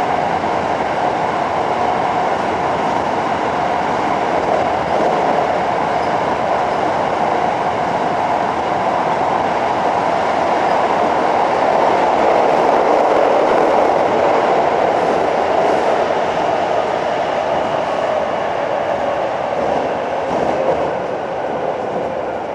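Running noise inside a Hankyu 7300-series field-chopper-controlled electric train car at speed in a tunnel: a dense, steady roar of wheels and motors with rail clatter. It swells to its loudest about halfway through, then eases off.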